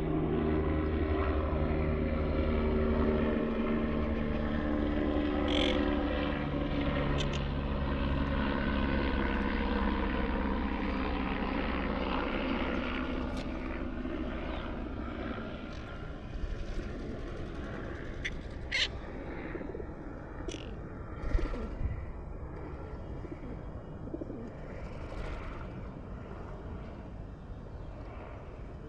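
A steady engine drone that fades away over the first half, followed by a few short, sharp parrot calls.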